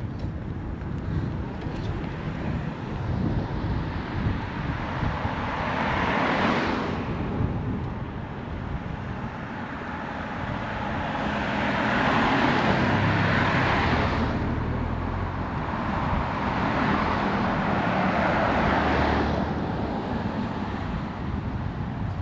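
Cars passing by on a road, three in turn, each a rising rush of tyre and engine noise that fades off, over a steady low traffic rumble.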